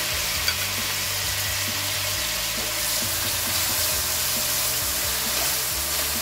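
Chopped tomatoes, onion, garlic and green chillies sizzling steadily in hot oil in a nonstick pan while a slotted spoon stirs them. The spoon clicks once against the pan about half a second in.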